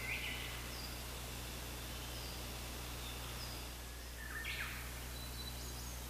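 Wild birds singing: short high notes repeated every second or so, with two louder song phrases, one right at the start and one about four and a half seconds in.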